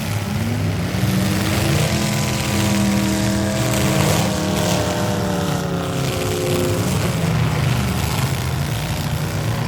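V8 demolition derby car engines running hard, over a dense low rumble. One engine's pitch rises about half a second in and holds, wavering slightly, until about seven seconds in.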